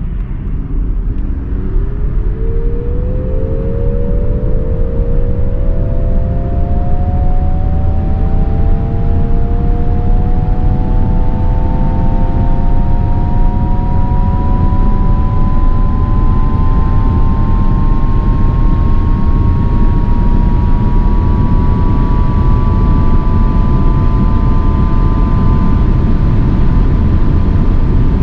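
Nissan Ariya e-4ORCE's twin electric drive motors whining under hard acceleration. The whine climbs quickly in pitch at first, then more and more slowly as speed builds. A loud rumble of road and wind noise runs underneath it.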